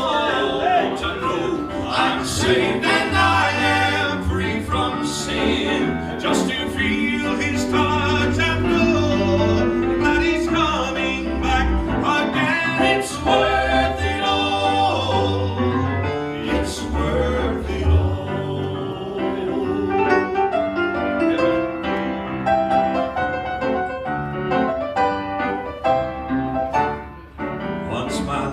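Southern gospel quartet music: a song with piano and singing voices over a heavy bass line. The bass drops away about eighteen seconds in.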